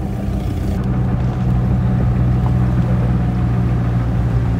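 Steady low hum of car engines running at low speed. The sound shifts abruptly about a second in, then settles into an even, deeper engine hum.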